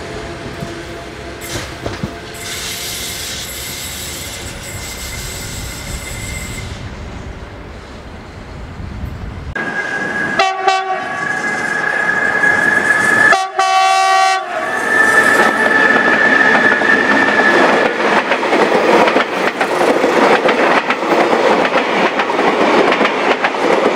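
Electric multiple-unit commuter train running past with a steady rumble and faint steady whine. About ten seconds in, the sound cuts suddenly to a train horn sounding in several long blasts over train noise.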